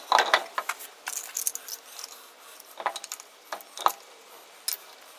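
Irregular metallic clinks and knocks from a road wheel being hung on its hub and its lug nuts handled, the loudest in the first half-second.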